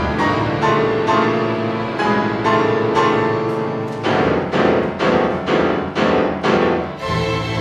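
Concert piano and chamber string orchestra playing classical music; about halfway through, the piano strikes a run of repeated chords about twice a second, and low strings come in near the end.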